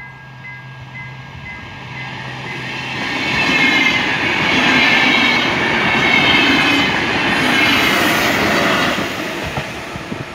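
A VR Intercity train, hauled by an Sr2 electric locomotive with Edo double-deck coaches, passes at speed over a level crossing. Its wheel and rail noise builds over a few seconds, stays loud for about five seconds with a rhythmic clatter, then fades near the end. For the first three seconds the level-crossing warning bell rings in a steady run of quick dings.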